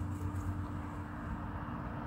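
Steady low outdoor hum and background noise with no distinct event.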